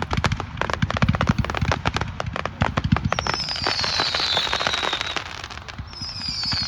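Consumer firework zipper cake going off in a rapid string of sharp pops and crackles. About three seconds in, whistling tones falling in pitch join the shots, and they come again near the end.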